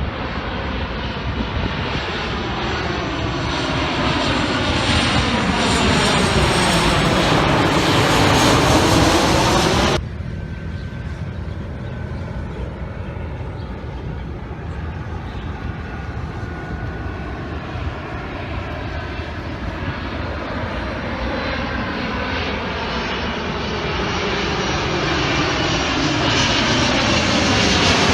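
Continuous engine drone of a passing aircraft, with slowly sweeping changes in tone. It drops abruptly about ten seconds in, then builds again slowly towards the end.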